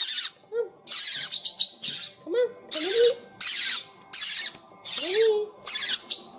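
A pet bird giving a steady series of about eight harsh, screeching squawks, roughly one every two-thirds of a second, with faint short rising squeaks between them.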